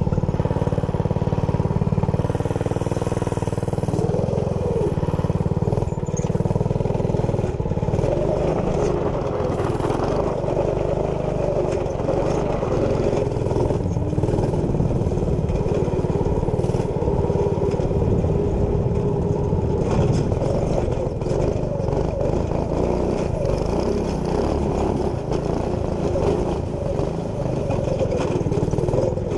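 Minibike's 212cc single-cylinder four-stroke engine running through a newly fitted center-exit exhaust, revving up and down as it is ridden.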